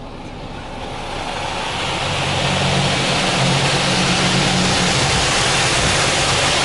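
Car wash machinery starting up: a rushing hiss that builds over the first two seconds or so and then holds steady, over a low motor hum.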